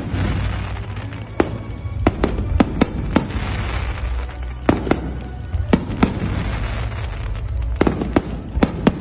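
Aerial fireworks going off: a string of sharp bangs and cracks at irregular intervals, some in quick pairs, over a steady low rumble.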